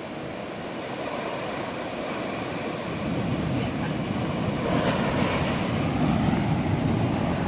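Atlantic surf washing in and breaking on the shore, with wind on the microphone; the rush of water swells louder about three seconds in as a wave comes up.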